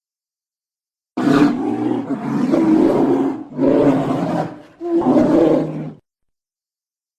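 A large wild animal roaring three times in close succession, starting about a second in. Each roar is rough and deep, and the last cuts off abruptly.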